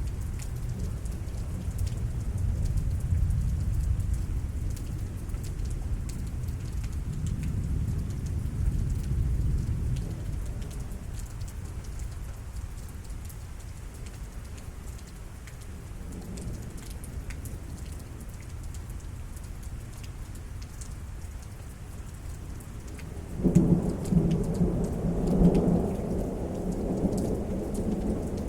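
Thunderstorm at night: steady rain over a long, low rolling rumble of thunder that fades away, then a sudden louder crack and rumble of thunder near the end.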